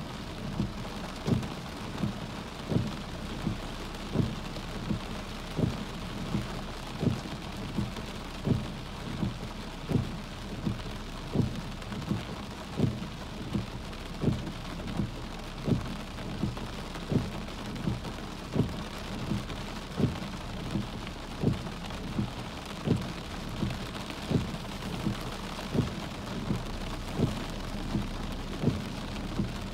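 Heavy rain falling steadily, with a regular low thump repeating about three times every two seconds all through.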